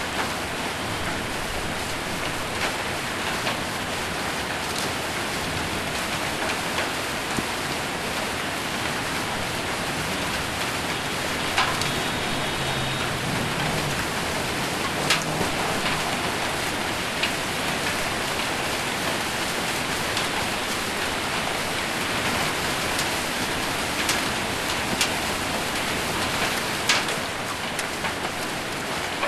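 Heavy rain mixed with hail drumming steadily on a metal roof, with a few sharper single knocks from bigger stones scattered through.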